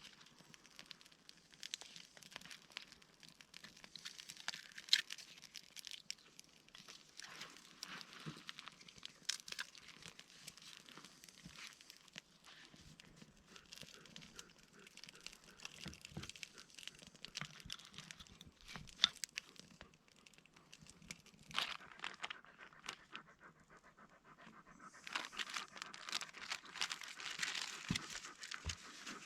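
A dog panting, plainest near the end, over scattered light crackles and rustling.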